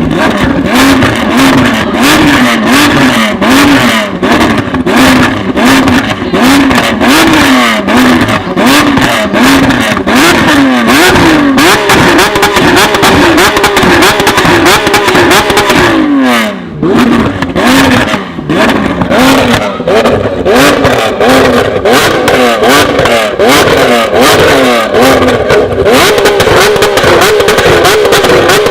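Sports car engines revving hard in quick repeated blips, about one to two a second, with crackling exhaust pops. About halfway through the pitch sweeps down and drops away, and then an engine holds higher, steadier revs.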